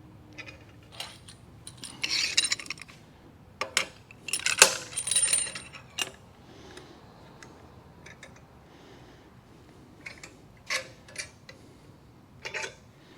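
Steel clamps and parts being handled and set on a steel fixture plate: scattered metal clinks and short clattering clusters, one of them briefly ringing.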